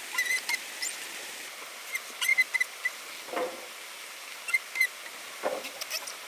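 Irregular sharp clicks and light taps, some with a brief high ring, and two duller knocks about three and a half and five and a half seconds in, over a steady background hiss.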